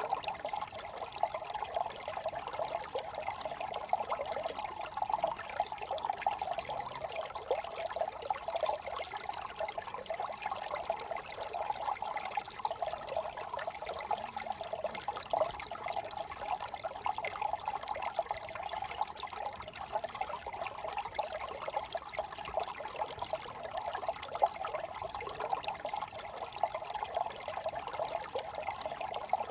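Small brook trickling and babbling steadily over stones, a continuous bubbling flow of water.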